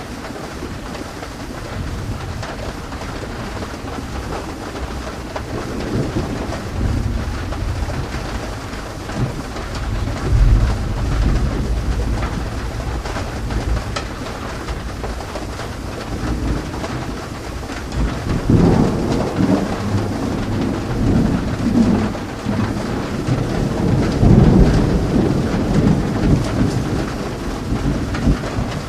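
Steady rain falling, with thunder rumbling several times: a long roll about a third of the way in, and heavier rumbles through the second half.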